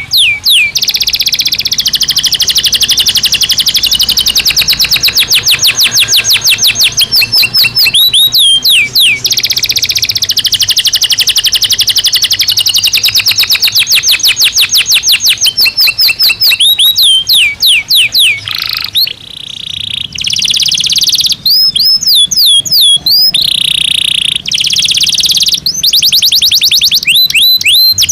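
Domestic canary singing a long, loud song of rapid trills and rolls, phrases of fast repeated chirps lasting several seconds each, with a short break a little over halfway through.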